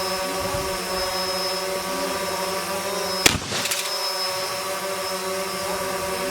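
A single sharp gunshot about three seconds in, plausibly the shotgun firing a hand-loaded shell of black powder with a .50 caliber slug in a sabot, with a short crackle after it. A steady, engine-like machine drone runs underneath throughout.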